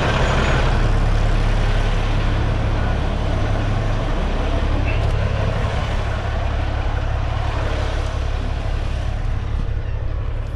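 Semi truck's diesel engine running steadily at a low, even pitch.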